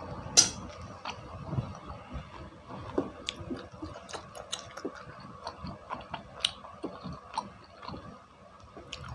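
A person chewing chewy cilok, tapioca balls in spicy sauce, with the mouth closed: soft wet mouth smacks and clicks at irregular intervals, with a sharper click about half a second in.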